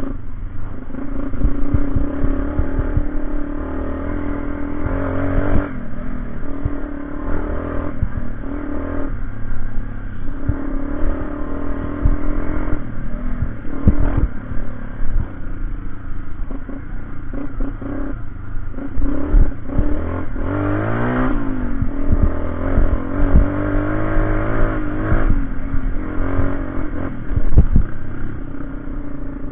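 Motorcycle engine running under load and being revved repeatedly, its pitch swinging up and down about twenty seconds in, with scattered clattering knocks.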